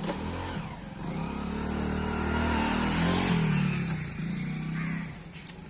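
A motor vehicle's engine passing by. It grows louder to a peak about halfway through, its pitch shifting as it approaches, then fades away.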